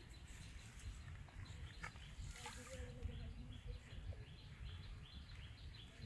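A bird calling over and over in short chirps, about three a second, starting about three seconds in, over a steady low rumble.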